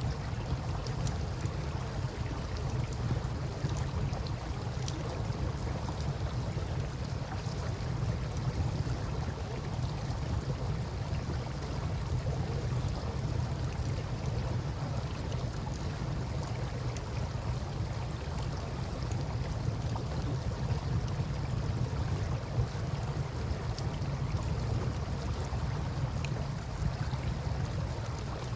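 Campfire crackling, with faint scattered ticks and pops, over a steady low rush of river water.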